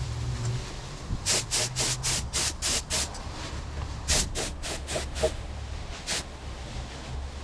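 Air-powered paint spray gun hissing in short quick bursts, about four a second, in two runs with a single burst near the end, as paint is laid down in strokes. A low steady hum runs underneath.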